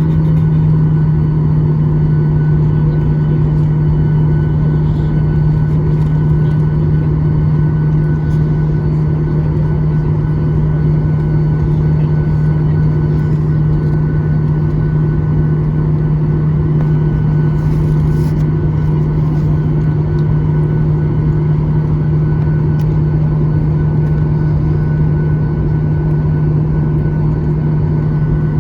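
Inside the cabin of a Boeing 737-800, its CFM56 turbofan engines running steadily: a loud, even drone with a low hum and faint higher whines that hold the same pitch throughout.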